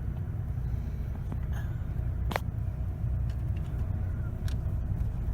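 Low steady rumble of a car idling, heard from inside the cabin, with a few short sharp clicks, the loudest a little past two seconds in.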